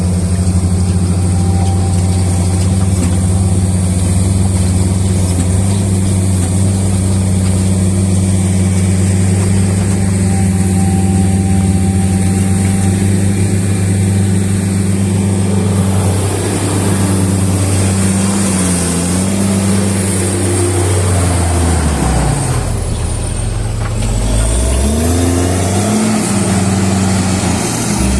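A heavy vehicle's engine runs at a steady speed. About two-thirds of the way in, its speed drops and climbs back several times, as it works under changing load.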